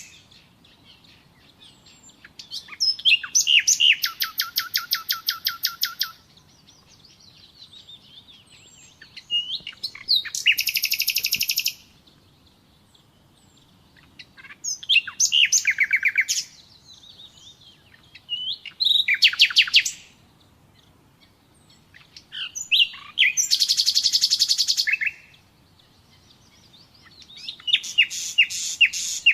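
Common nightingale singing: six phrases of fast repeated notes and trills, each one to three seconds long, separated by pauses of a few seconds.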